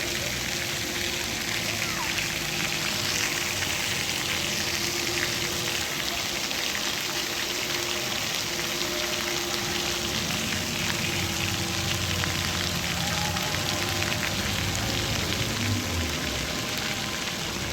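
Steady hiss of rain falling on the ground and surfaces around, with no pauses.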